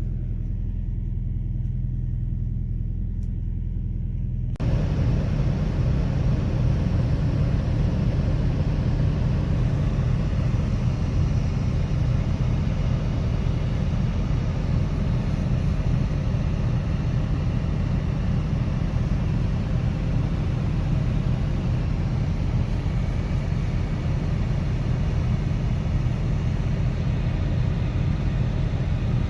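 Steady low vehicle engine rumble. About four and a half seconds in it jumps abruptly to a louder, rougher rumble that carries on steadily.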